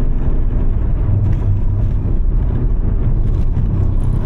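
Steady low rumble of a vehicle driving on the road, engine and road noise.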